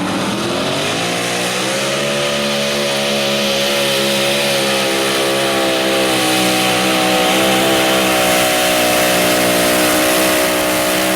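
Modified mini pulling tractor's engine revving up over the first couple of seconds, then held at high revs under load while pulling the sled.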